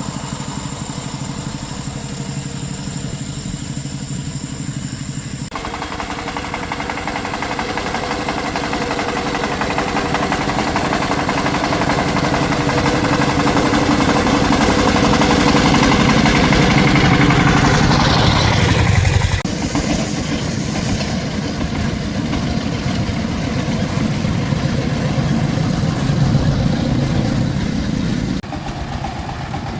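An engine running steadily. It grows louder over about ten seconds, then the sound changes abruptly twice: once about two-thirds of the way through and again near the end.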